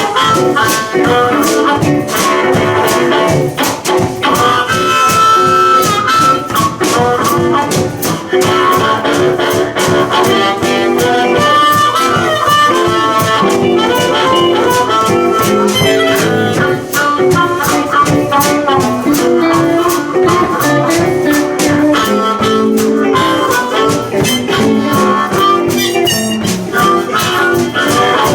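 Live blues band playing a boogie blues instrumental stretch: blues harmonica to the fore over two guitars and a drum kit keeping a steady beat.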